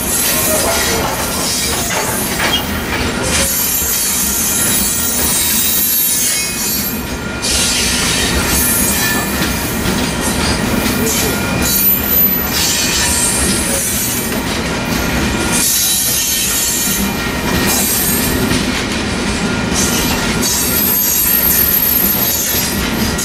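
Freight train coal cars rolling past close by, their steel wheels running on the rails with a thin, high wheel squeal over a steady noise.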